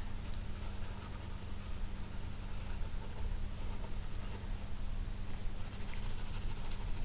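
Pencil sketching on paper: quick back-and-forth scratchy strokes, with a brief pause about four and a half seconds in.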